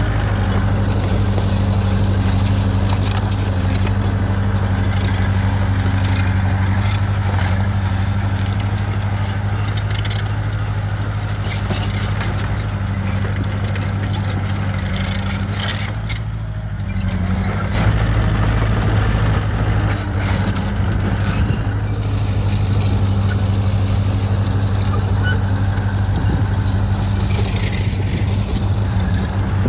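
Bulldozer's diesel engine running steadily under load, with scattered metallic clanks and clicks. The engine note dips briefly about halfway through and comes back stronger.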